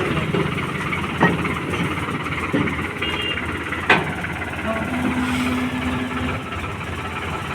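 Sonalika Tiger DI 745 tractor's diesel engine running steadily at low revs, with two sharp knocks, one about a second in and one about four seconds in.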